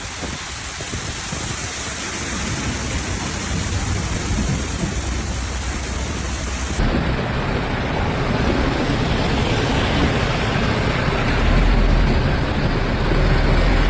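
Heavy storm rain hissing steadily. About halfway through, the rain sound shifts, and near the end a deep rumble builds under it.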